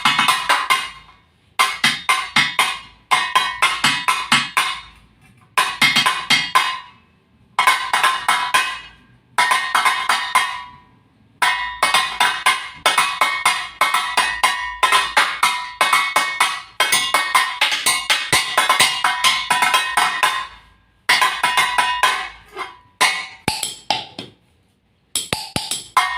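Improvised percussion on scrap objects: rapid rhythmic strikes with a bright, ringing metallic ring, played in short phrases broken by brief pauses, with one longer unbroken run in the middle.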